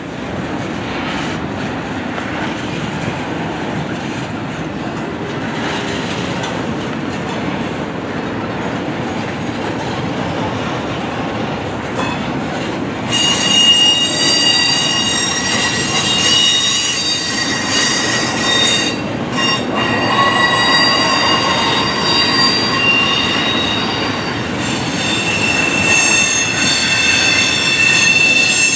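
Intermodal freight cars rolling past with a steady rumble of wheels on rail. From about halfway the wheels start squealing, with several high, wavering squeal tones over the rumble.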